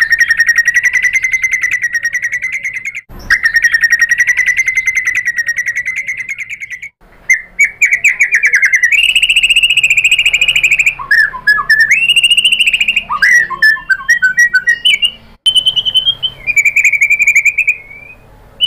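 White-rumped shama (murai batu) singing loud, very rapid rattling trills in long phrases of several seconds each, separated by brief breaks. Shorter varied and falling notes come about two-thirds of the way through.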